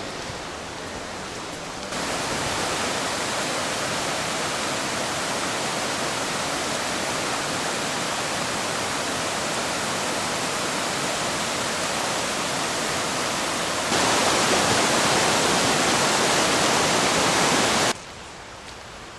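Aber Falls waterfall: a steady rush of falling water. It steps louder about two seconds in and again near fourteen seconds, then drops off suddenly near the end.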